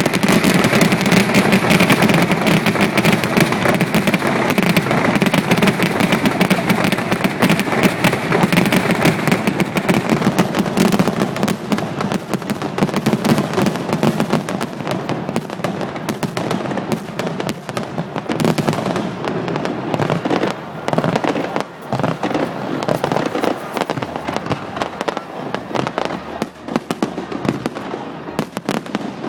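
Fireworks display: a dense, rapid barrage of bangs and crackling, heaviest in the first ten seconds or so and thinning out after.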